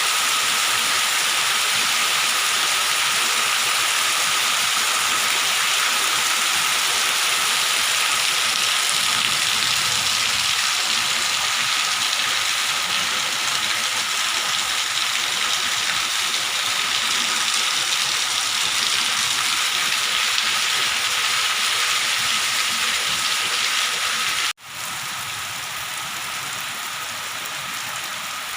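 Heavy rain falling steadily, an even hiss. About three-quarters of the way through it cuts out for an instant and resumes slightly quieter.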